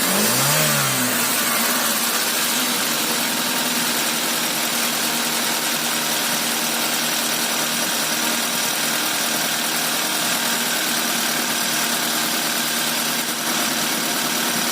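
Proton Iswara's rebuilt Magma SOHC 4G13 four-cylinder engine, fitted with 4G15 pistons and a 272° racing cam, revved once briefly at the start, the pitch rising and falling, then idling steadily.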